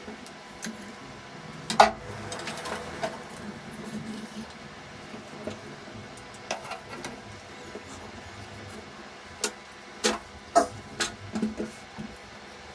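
Scattered sharp clicks and light knocks from hands working on electrical wiring: wires and plastic push-in connectors being handled and fitted. One loud click comes about two seconds in and a quick cluster comes near the end, over a faint steady hum.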